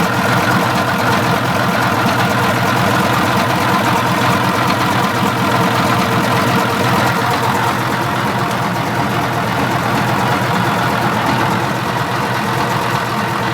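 The diesel engine of a 1984 Grove TMS180 hydraulic truck crane idles steadily with an even, rapid firing pulse.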